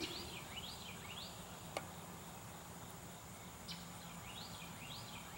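A bird chirping faintly, two runs of three or four quick rising-and-falling notes, one near the start and one near the end, over a steady thin high-pitched whine. A single light click a little under two seconds in.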